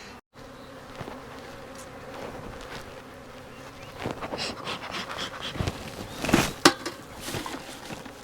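Honeybees buzzing in numbers around an opened hive, a steady hum from bees that are all worked up. From about four seconds in come scattered knocks and scrapes, the loudest pair a little past six seconds.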